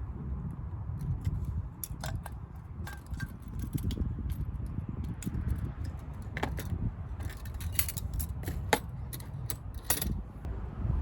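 Irregular light clicks and clinks of small hard objects being handled, more frequent in the second half, over a steady low rumble.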